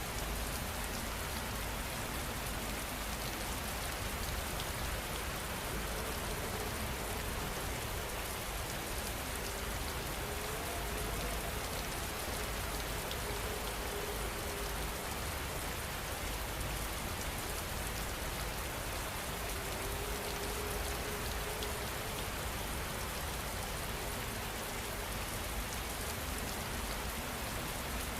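Rain falling steadily, an even, unbroken hiss of countless drops.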